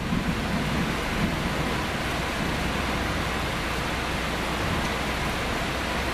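Steady rain falling during a thunderstorm, an even hiss. A low rumble of thunder fades out in the first second.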